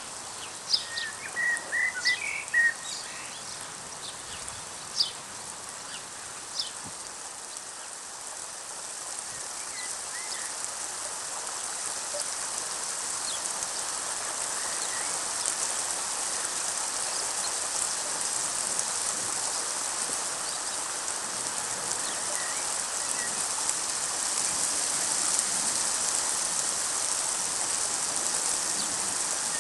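Rain shower falling and growing steadily heavier, with a few short bird chirps and sharp drop ticks in the first few seconds.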